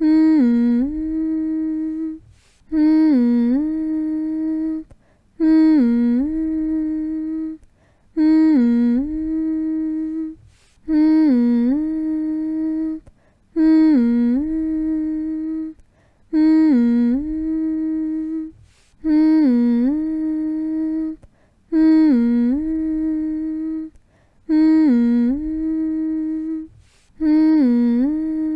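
A person humming the same low note over and over. Each hum lasts about two seconds, dips in pitch near its start and then holds steady, with a short breath between hums, about every two and a half seconds.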